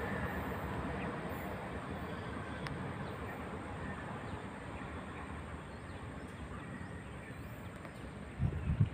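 KTM Komuter electric train rumbling away, its noise fading steadily as it recedes. A few low thumps come near the end.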